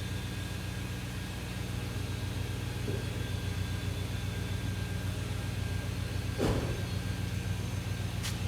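BMW M62B35 3.5-litre V8 idling steadily through an aftermarket Magnaflow exhaust with Magnaflow catalytic converters. A brief noise cuts in about six and a half seconds in.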